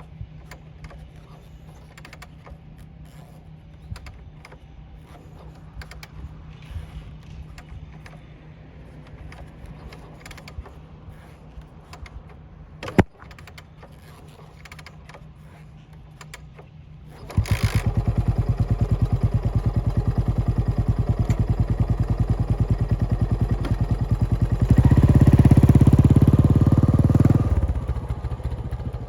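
Kick-started Yamaha SR400 single-cylinder four-stroke, bored to 500 cc and fitted with a New Gate SR-VCT Type R muffler, firing up after a quiet stretch with faint clicks and one sharp click. It settles into a fast, even thumping idle, is revved briefly near the end, then drops back toward idle.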